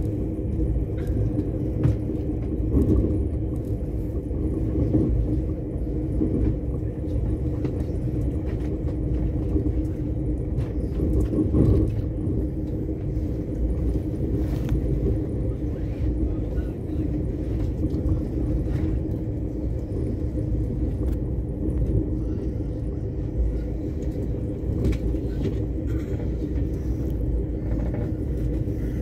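Steady low rumble of a passenger train running along the track, heard from inside the carriage, with a constant droning hum.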